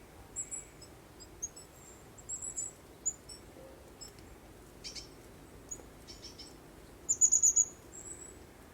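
Small birds chirping: short, high, scattered notes throughout, with a quick, louder run of about six chirps near the end.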